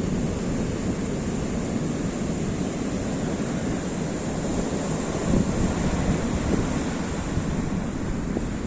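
Heavy sea surf rushing and breaking on the beach, with strong wind buffeting the microphone; the surf swells slightly about five seconds in.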